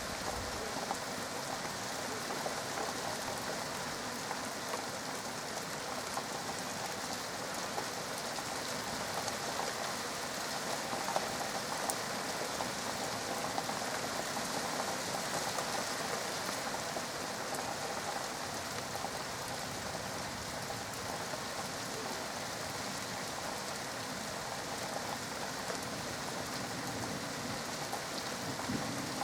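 Rain falling steadily during a thunderstorm, an even hiss of drops on surfaces.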